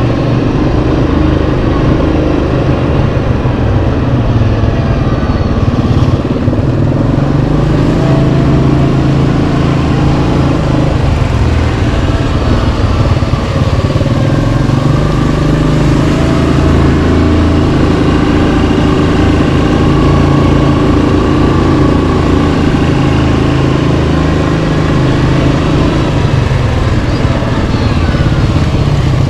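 Yamaha Kodiak 700 ATV's single-cylinder four-stroke engine running while riding, loud and steady, its pitch shifting up and down a little with the throttle.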